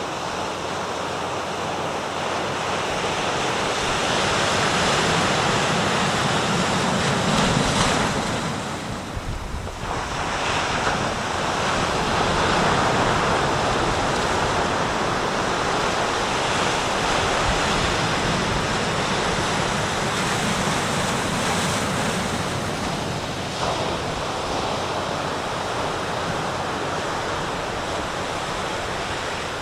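Sea surf washing and breaking on the shore in a continuous rush that swells over the first several seconds, drops into a brief lull about ten seconds in, then swells again and eases.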